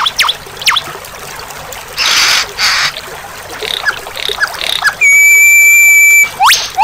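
White-rumped shama song from a recorded training track. It opens with quick falling whistles, then two harsh rasping bursts about two seconds in and a few short chirps. About five seconds in comes a loud steady whistle held just over a second, followed by sharp upslurred whistles near the end.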